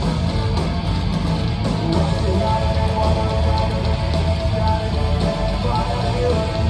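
Live heavy rock band playing loudly, with distorted guitars, bass and drums, and no singing.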